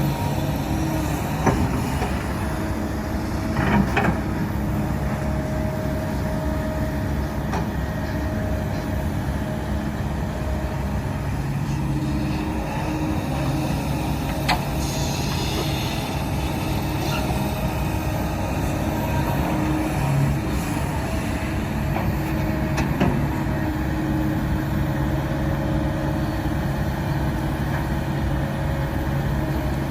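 Diesel engine of heavy earthmoving machinery running steadily under work, with a few sharp knocks and clanks and a short hiss about halfway through.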